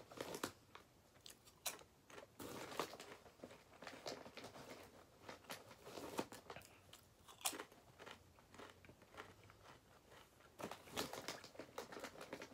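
A person chewing crisp cheddar barbecue potato chips: irregular crunches in bunches, with quieter gaps between them.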